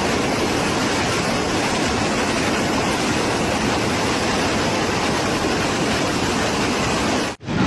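Loud, steady rush of water, an even noise with no pitch, cutting off abruptly near the end.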